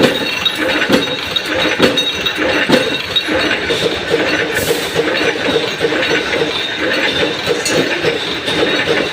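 Mechanical punch press running, stamping out metal washers: repeated knocks from its strokes over a steady machine clatter, with metal clinking.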